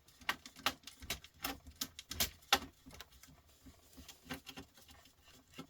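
Irregular small clicks and taps of tools against the metal and plastic parts of a record player being taken apart, several a second, with short pauses between.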